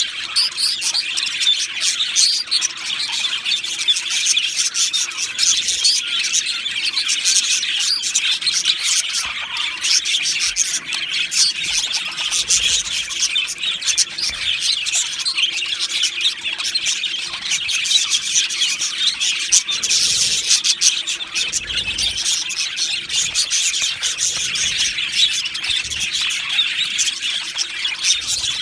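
Male budgerigars chirping and warbling without a break, a dense stream of rapid, high chirps.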